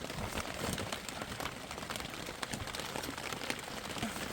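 Steady rain falling, with many separate drops striking a surface close by as sharp little ticks.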